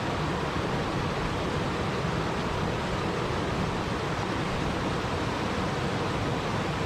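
Steady, even rushing of water, with no single drops, splashes or other events standing out.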